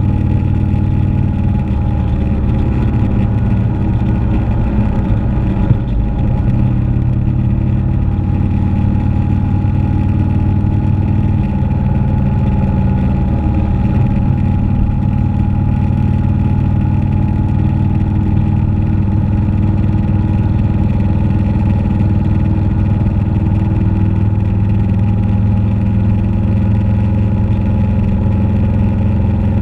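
Motorcycle engine running at a steady road speed, its pitch holding nearly constant, with one brief knock about six seconds in.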